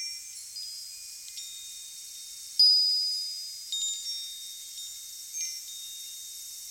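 Wind chimes ringing, struck at irregular moments, each high tone ringing on and fading. The loudest strike comes about two and a half seconds in.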